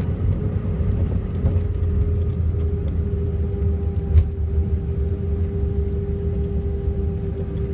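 Cabin noise of an Airbus A320 rolling along the runway after landing: a loud, steady low rumble from the wheels and engines with a steady whine over it. There is a single short bump about four seconds in.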